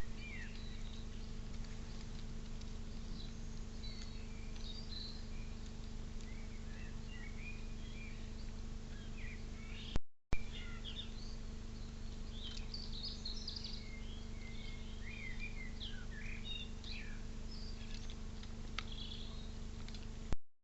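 Small birds chirping and twittering in short, overlapping calls over a steady low hum and background noise. The sound cuts out briefly about halfway through.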